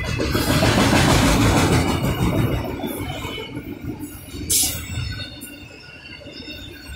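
Freight train of autorack cars rolling past, a steady rumble and rattle of wheels on the rails that grows quieter after about two seconds, with a brief high hiss about four and a half seconds in.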